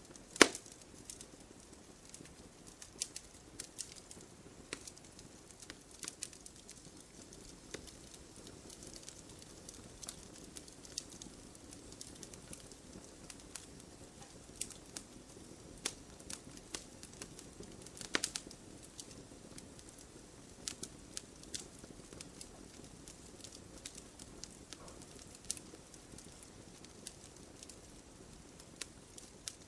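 Wood fire burning with a steady low hiss and scattered sharp crackles and pops. The loudest pop comes about half a second in, and a quick cluster of pops follows about two-thirds of the way through.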